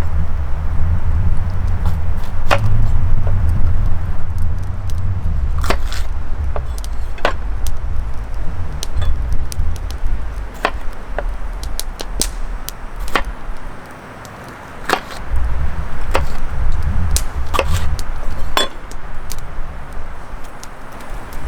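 Strong wind gusting against the microphone, a low rumble that swells and fades and briefly drops away a little past halfway, with scattered sharp clicks and knocks on top.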